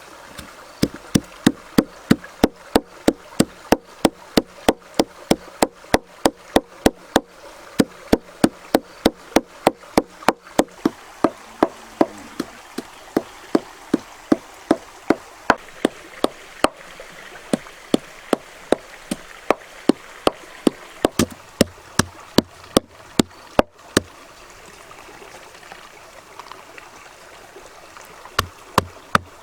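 Knife chopping on a wooden board in rapid, even strokes, about three a second. The chopping stops about 24 seconds in, and a few more strokes come near the end. A stream runs steadily underneath.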